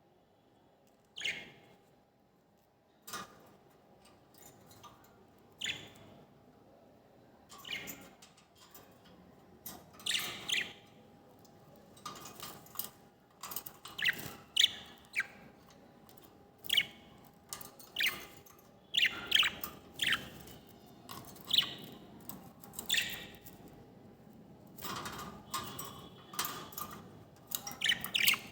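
A bird calling over and over with short, sharp, high calls, sparse at first and then coming about once a second or faster. A faint steady hum lies underneath.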